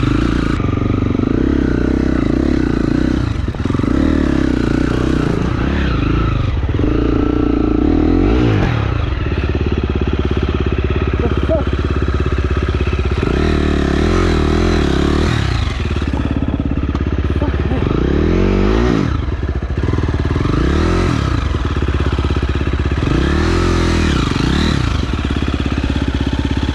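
KTM enduro dirt bike engine being revved up and down over and over, the revs rising and falling every couple of seconds, more sharply in the second half.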